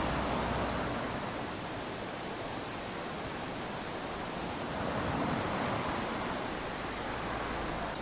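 Small waves lapping onto a sandy beach: a steady hiss of surf that swells as a wave washes up at the start and again about halfway, then eases.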